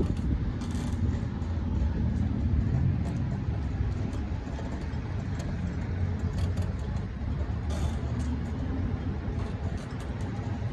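Steady low rumble of a motor vehicle running, like car or road noise.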